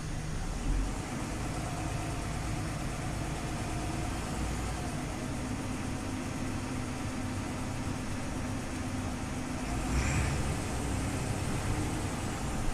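Scania OmniLink CL94UB city bus running, a steady engine drone with tones that slowly shift in pitch, and a brief louder rushing noise about ten seconds in.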